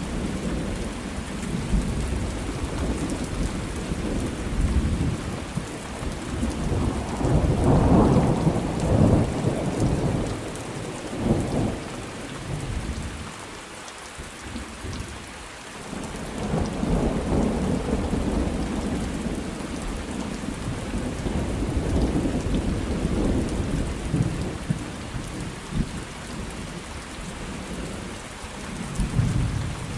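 Thunderstorm: steady rain falling, with rolling thunder that swells about a third of the way in, dies down for a moment, then rumbles on again through the second half and once more near the end.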